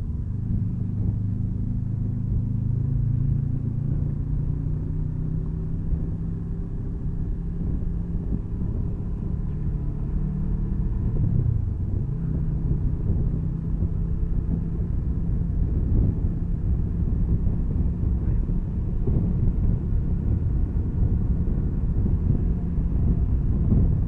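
Motorcycle engine running steadily at road speed, ridden on the open road, under a low rumble of wind on the microphone. The engine note dips briefly and comes back up about eleven seconds in.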